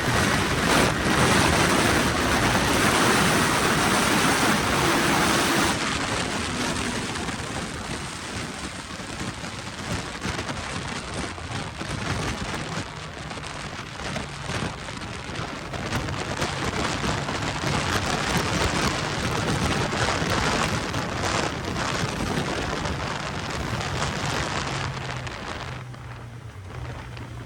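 Wind rushing over the microphone of a Suzuki GSX650F ridden at speed, with the bike's inline-four engine faintly beneath it. The rush is loudest for the first six seconds, then eases. Near the end it drops further and a steady low engine note comes through.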